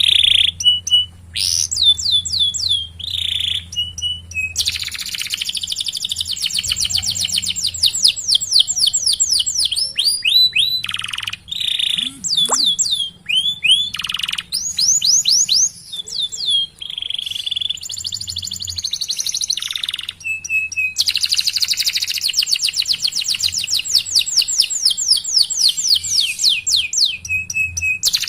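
Domestic canary singing a long song: rapid rolling trills lasting several seconds, about five seconds in and again about twenty-one seconds in, between runs of quick rising chirps and clear whistled notes.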